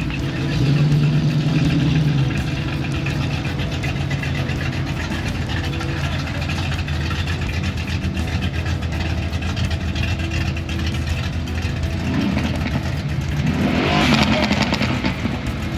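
Car engines running as a line of vehicles rolls slowly past. About fourteen seconds in, one vehicle passes close and loud.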